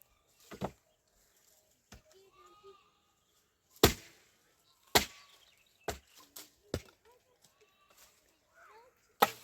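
A series of sharp, hard knocks at irregular intervals, about eight in all, the loudest a little before four seconds, at five seconds and near the end, with faint animal or bird calls in between.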